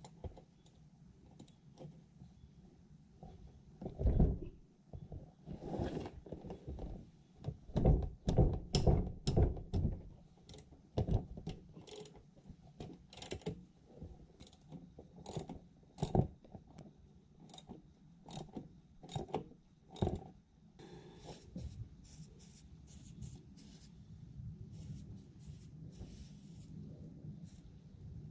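Metal hand tools and parts clicking, knocking and scraping in irregular taps during work on a Yanmar Pochi tiller's rotary shaft seal housing, with the heaviest knocks about four seconds in and again from about eight to ten seconds.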